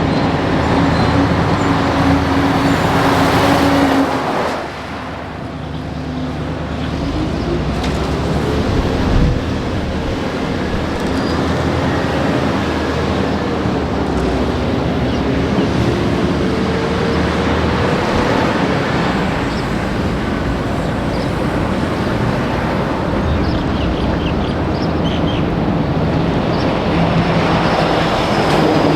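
Heavy trucks on a highway. One passes close in the first four seconds and fades quickly. Another truck's engine then climbs and drops in pitch several times as it works up through the gears.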